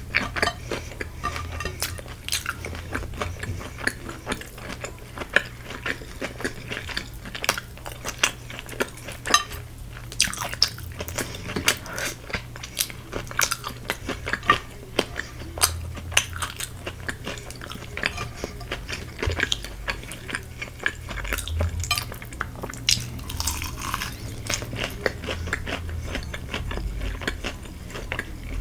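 Korean fried chicken being bitten and chewed, a dense run of crunchy crackles and sharp clicks.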